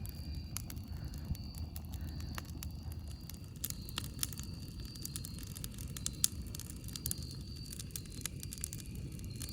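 Campfire crackling: scattered sharp pops and snaps of burning wood over a steady low rumble, with one louder pop about six seconds in.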